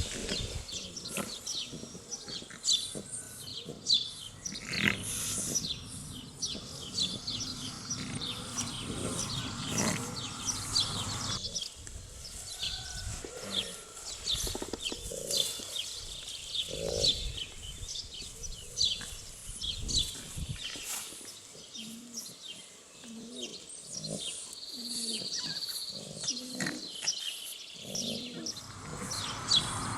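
Shar Pei puppies playing and tussling together: scuffling with many short clicks and taps, mixed with short puppy vocalisations, more of them in the second half.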